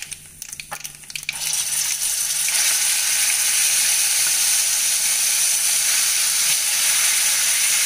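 Lemon pickle pieces in chilli masala scraped with a wooden spoon from a steel pot into a kadai of hot oil, sizzling. After a few light scrapes, the sizzle starts about a second in as the pickle hits the oil, then holds steady and loud.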